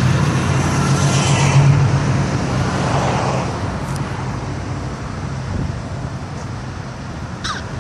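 Classic car's engine running as it cruises past, a low rumble that is loudest at first and fades steadily as the car moves away.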